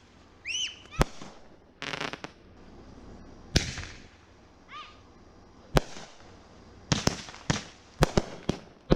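Consumer fireworks going off: single sharp bangs of aerial shells a few seconds apart, a short burst of crackle about two seconds in, and a quicker run of bangs near the end. Two short high-pitched sounds come between the bangs.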